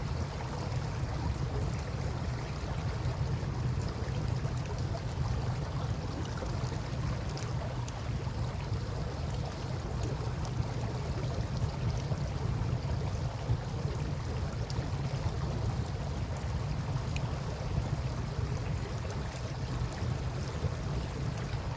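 Campfire crackling with scattered small pops over a steady low rush of river water.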